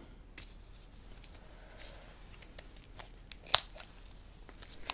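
Scissors snipping through kinesiology tape: a few faint cuts and handling clicks, with one sharper snip about three and a half seconds in.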